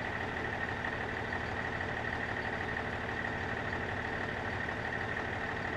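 Box truck engine idling steadily, with a steady high-pitched tone running over it.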